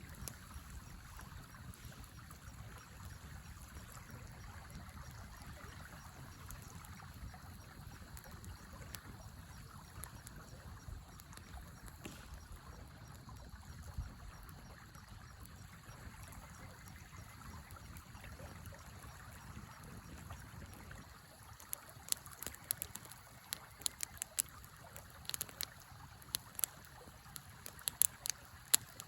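River running steadily, with a wood campfire crackling in sharp, irregular pops that start about three-quarters of the way in.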